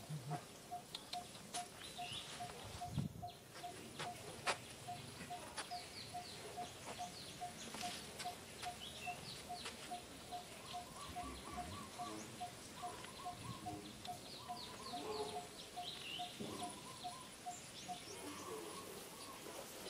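Birds calling: one repeats a single short, clear note about three times a second until near the end, while others give scattered short, high, falling chirps. A few sharp clicks.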